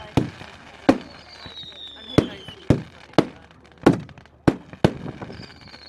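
Fireworks going off: about eight sharp bangs at uneven intervals, with a whistle falling in pitch in the middle.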